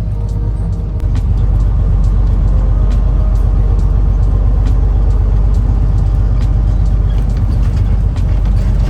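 Semi-truck's diesel engine and road noise heard from inside the cab, a steady low rumble that grows louder about a second in and then holds.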